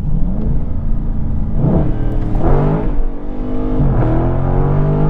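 2020 Dodge Charger Scat Pack's 6.4-litre V8 revving hard twice, its pitch climbing steeply about a second and a half in and again in the second half.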